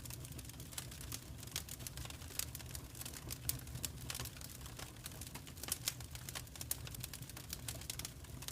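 Wood fire crackling in a fireplace: quick, irregular pops and snaps, several a second, over a steady low rumble.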